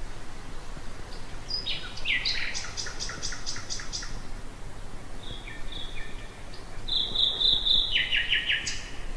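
Nightingale singing in separate phrases with short pauses between them. There is a fast run of repeated notes about two seconds in, a few clear whistled notes around the middle, then a loud series of repeated notes and a rapid trill near the end.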